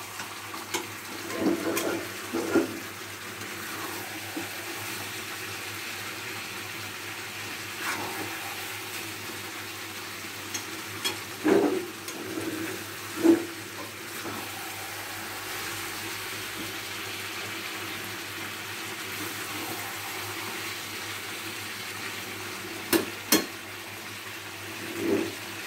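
Chicken curry sizzling steadily in a pan on a gas stove as the masala is fried down in the juices the chicken has released, before any water is added. A spatula scrapes and knocks against the pan a few times: a couple of seconds in, around the middle, and near the end.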